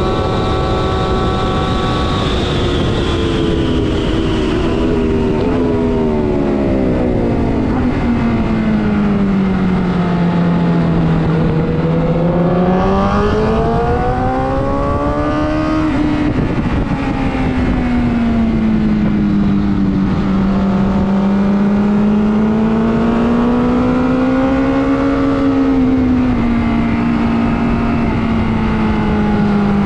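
Superbike engine running at track speed, its note falling and rising with the throttle through the corners over a steady rush of noise.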